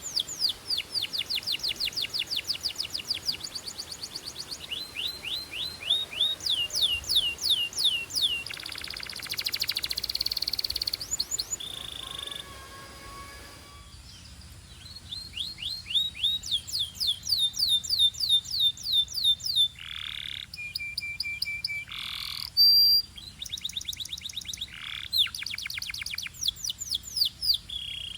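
Canary singing: long runs of rapid, evenly repeated sweeping notes (trill tours), broken by a buzzy rolling phrase and a few slurred gliding notes, with a short lull about halfway through.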